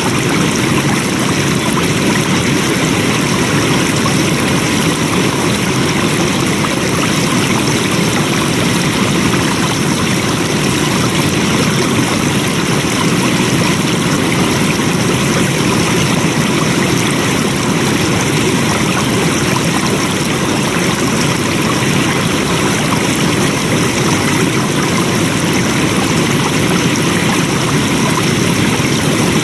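Flowing water: a stream running steadily with an even rushing sound.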